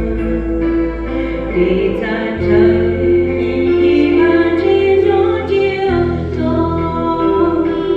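Congregation singing a slow hymn together, with held notes over a steady bass accompaniment.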